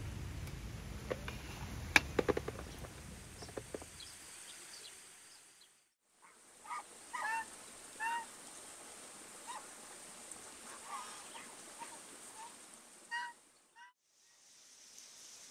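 A steady hiss like rain with a few sharp clicks, which fades out over the first five seconds. After a short break, a bird gives about ten short honking calls, spread unevenly over some seven seconds.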